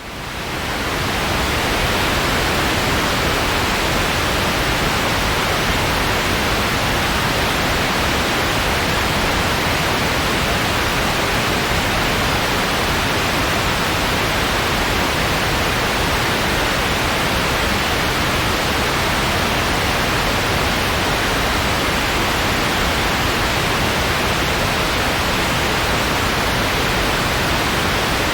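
Steady white noise, an even hiss with no clicks or tones, fading in over the first couple of seconds and then holding level.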